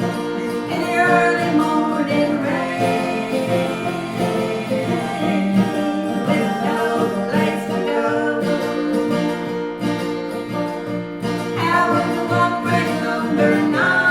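Acoustic guitar accompanying a singer in a live folk song.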